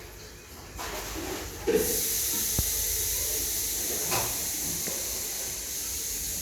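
A steady, high hiss that starts faintly, jumps louder a little under two seconds in and holds steady.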